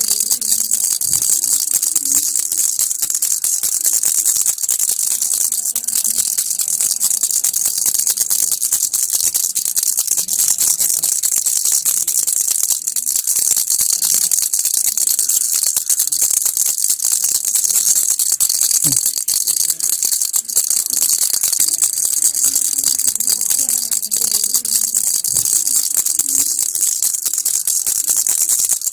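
Baby's rattle (kilukki) shaken continuously, a fast, even, bright rattle of beads inside a toy without pauses.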